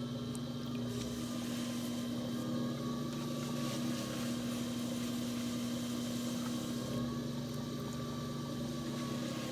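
Electric potter's wheel motor running with a steady hum.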